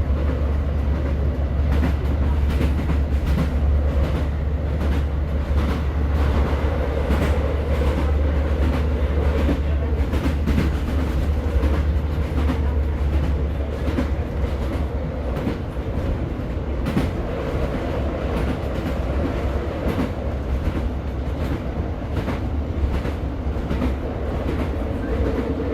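Class 150 diesel multiple unit running along the line, heard from inside the carriage: a steady low drone from the underfloor diesel engine and running gear, with wheels clicking over rail joints at irregular intervals.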